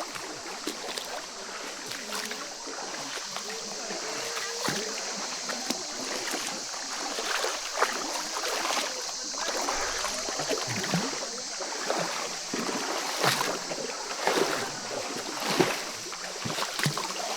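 Shallow river water splashing and trickling, with irregular sharp splashes, over a steady high hum of insects.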